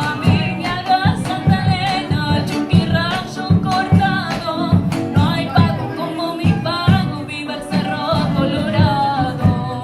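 A voice singing a Latin American–style song over a strummed guitar, with a steady strummed rhythm.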